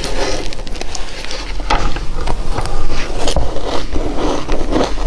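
Frozen matcha ice being bitten and chewed: irregular sharp crunches and cracks, two or three a second.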